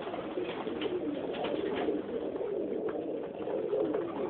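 Several domestic pigeons (New York flying flights) cooing together in a loft, with overlapping low coos going on without a break.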